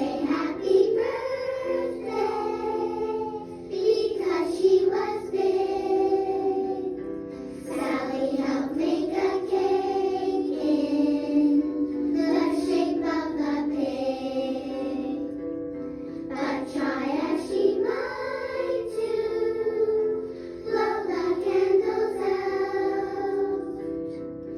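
A children's song: singing over backing music, in phrases of about four seconds each.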